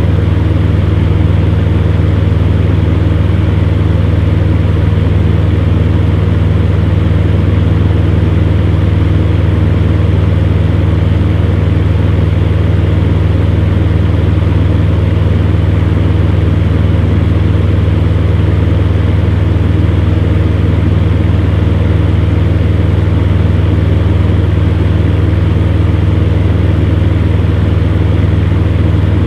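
Fan heater running steadily: a constant low hum with a few steady tones over an even rush of blown air.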